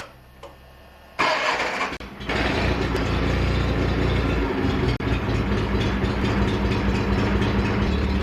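John Deere 316 lawn tractor engine cranked by the starter for about a second, then catching a little after two seconds in and running steadily; the owner judges that it sounds good.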